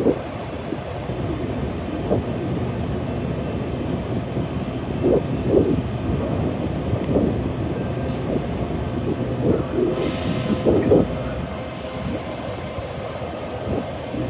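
A train running past close by: a steady rumble of wheels on rail with irregular clunks, and a brief hiss about ten seconds in.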